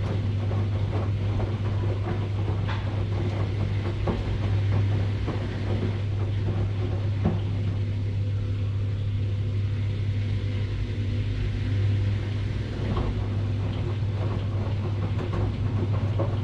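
Washing machine running with a steady low hum and scattered light knocks and rattles. The rattling eases off for a few seconds in the middle, then picks up again.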